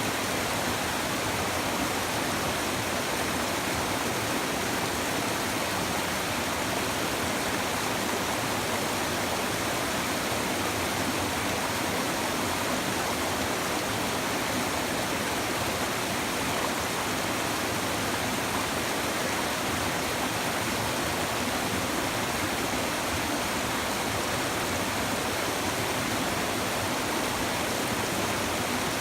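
A river babbling and rushing over stones: a steady, even wash of flowing water.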